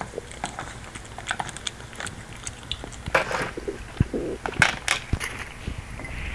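Close-up eating sounds: chewing with scattered small clicks. A short scratchy noise comes about three seconds in, and a few sharper clicks follow a second or so later.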